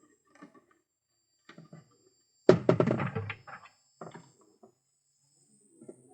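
Pigeons moving about in a wooden loft: faint scattered taps and scratches, then a short loud flurry of knocks and flaps about two and a half seconds in that dies away over a second.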